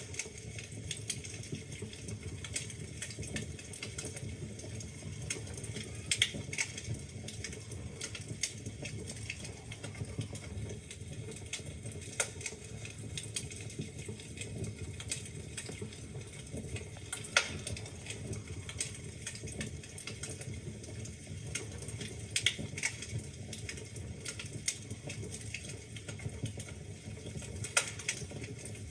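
Wood fire in a fireplace crackling: irregular sharp snaps and pops over a steady low rumble of burning logs, with a few louder pops scattered through.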